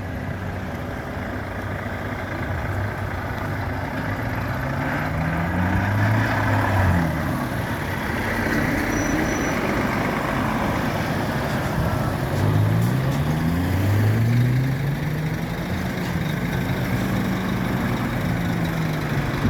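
Tractor engines driving past one after another, their pitch rising several times as they pull away and go up through the gears, over a steady engine rumble.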